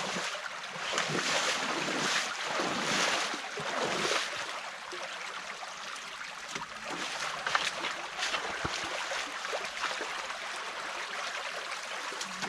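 Stream water rushing and splashing through an opening in a beaver dam, swelling louder during the first few seconds, with a couple of faint knocks later on.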